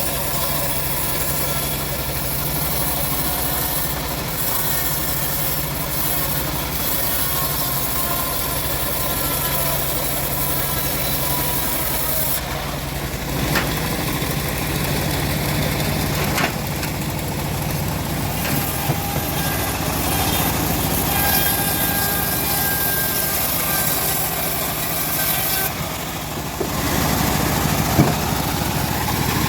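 The engine of a homemade bandsaw mill running steadily. Its note shifts about halfway through and again near the end, with a sharp knock just before the end.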